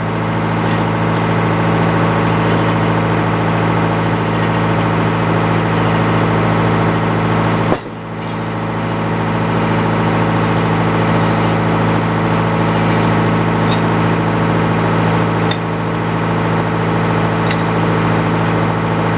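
Steady machine drone, an engine or motor running at an even speed, with a sudden brief break about eight seconds in and a few faint ticks over it.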